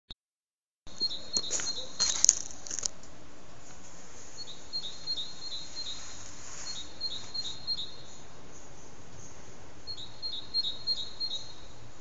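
A songbird calling in four quick series of short high notes, about five to seven notes each, with a pause of a second or more between series. A few sharp clicks come near the start, the loudest about two seconds in.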